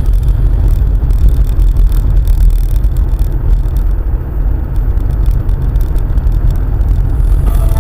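Car driving along a road, heard inside the cabin through a dashcam microphone: a steady low rumble of tyres and engine with road noise above it.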